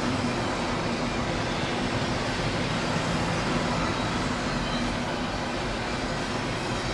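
CSX freight train cars rolling past: a steady rush of steel wheels on rail.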